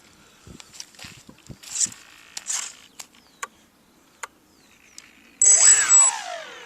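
Light knocks and handling noises, then about five seconds in the Twinstar II's twin electric motors power up suddenly with a high whine and wind down, their pitch falling over about a second. The owner puts this to a brake setting he has not yet sorted out.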